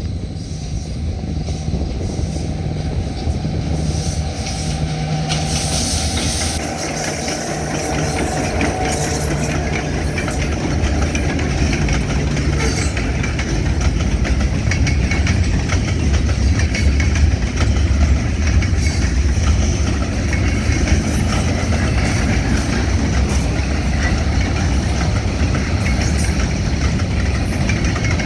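Freight train on the move: a diesel locomotive's engine runs steadily while the railcars roll, their wheels clicking over the rail joints, the clicks thickening in the second half.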